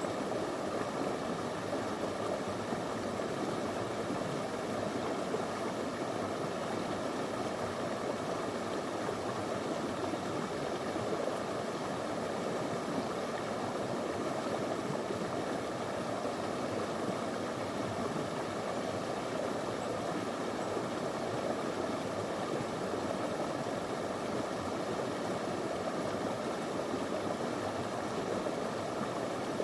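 Small river flowing over stones: a steady, even rush of water.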